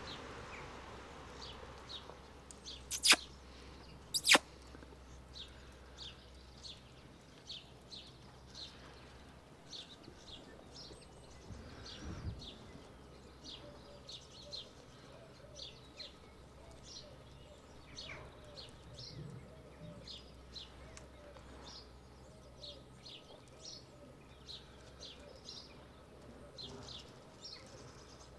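Small birds chirping over and over in the open air, with two sharp knocks about three and four seconds in.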